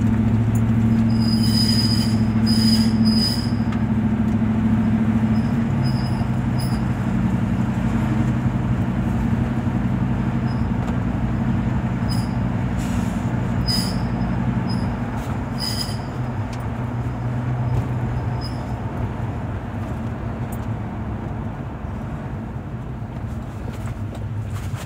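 2007 Ford F-150 giving a high-pitched metallic screech in short squeals that come and go over a steady low rumble; the owner places it at the rear passenger wheel and finds it seems to be triggered by turning.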